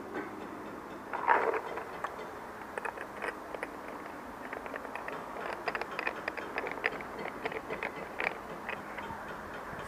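Small scattered clicks and rattles of paintball gear being handled, with a louder rustle about a second in.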